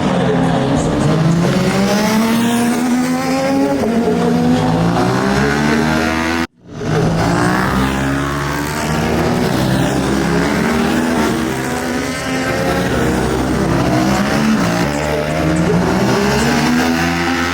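Several superbike engines at high revs, overlapping. Their pitch climbs and falls back again and again as they accelerate and shift gears. The sound cuts out abruptly about six and a half seconds in, then comes back.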